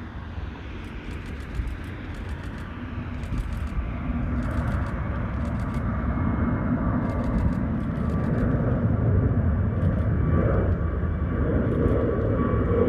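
Airbus A320neo jet engines at takeoff power: a broad rumble that grows steadily louder as the aircraft comes closer, with a thin steady whine above it.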